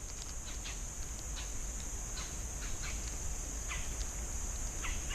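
Outdoor ambience: a steady high-pitched drone with a few short bird chirps scattered through it.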